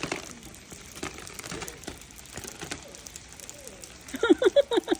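Rain ticking and crackling on an umbrella, with faint voices. Near the end comes a quick run of short, high, pitched cries.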